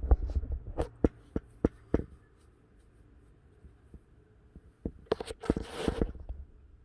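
A quick run of sharp clicks and knocks, then a second cluster of knocks with a short burst of rustling close to the microphone.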